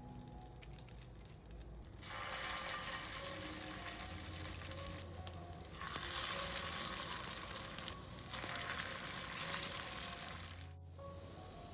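Eggplant cutlets frying in hot oil, a loud sizzling that starts about two seconds in, eases off twice briefly and cuts out near the end, over soft background music.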